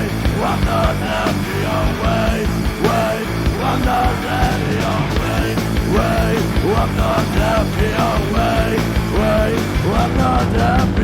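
Rock band playing an instrumental passage with drums, bass and guitar, and a repeating lead line that bends up and down in pitch.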